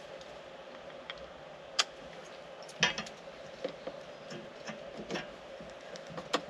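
Small clicks and taps of parts being handled while a replacement tractor switch is fitted: one sharp click about two seconds in, a cluster about three seconds in, and lighter ticks after, over a faint steady hum.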